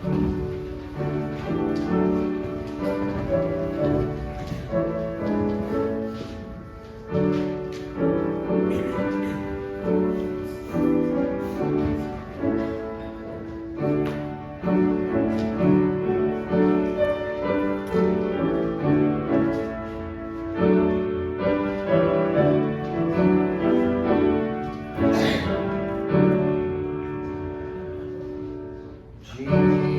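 Piano playing the introduction to a hymn in a series of struck chords and melody notes, which leads into the congregation's singing.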